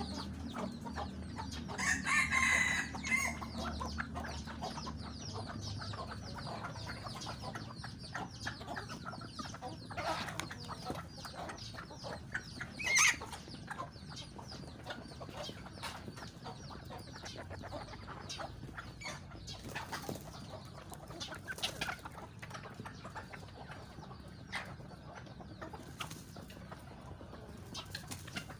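Domestic chickens clucking, with a longer rooster-like call about two seconds in and a sharp, louder call near the middle. Many short calls and pecks between them, with a low hum in the first few seconds.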